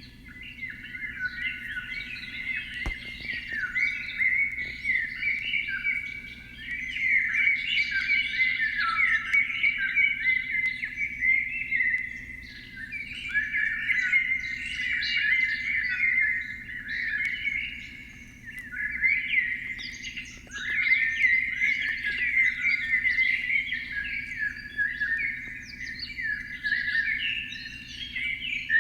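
A dense chorus of many small birds chirping and twittering without pause, swelling and fading in loudness every few seconds. A faint steady low hum lies underneath.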